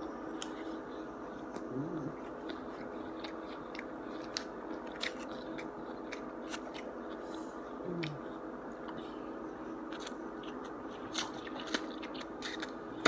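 Close-up mouth sounds of a man eating broccoli and chow mein noodles: chewing with scattered short, sharp clicks, over a steady background hum.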